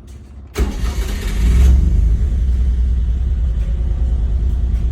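1991 Honda Acty Street's small three-cylinder engine on a cold start: it fires suddenly about half a second in, flares up in revs for a moment, then settles into a steady idle.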